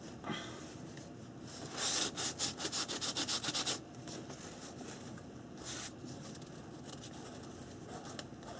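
Fingers rubbing dried masking fluid off a painted paper page: a quick run of back-and-forth rubbing strokes for about two seconds, then one more short rub a couple of seconds later.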